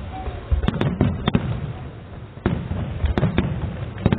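Fireworks display, aerial shells bursting: a cluster of sharp bangs and crackles about half a second in, a short lull, then another run of bangs from about two and a half seconds.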